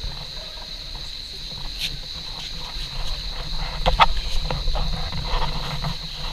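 Small boat being brought alongside a landing: low water and hull sounds, with a few sharp knocks about four seconds in and a steady high whine throughout.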